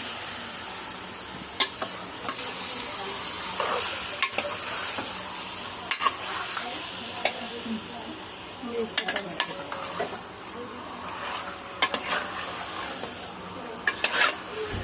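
Chicken sizzling as it fries in hot oil with ginger-garlic paste, stirred with a spoon that scrapes and clinks against the pot, the clinks bunching up in the second half.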